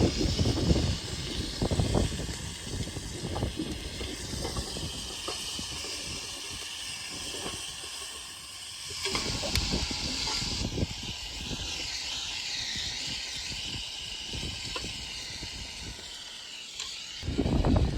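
Steak sizzling over a campfire: a steady hiss with scattered short crackles and knocks.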